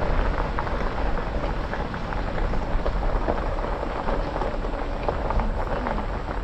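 Jeep Gladiator rolling along a gravel backroad: a steady rumble of tyres on gravel with many small scattered crackles of stones.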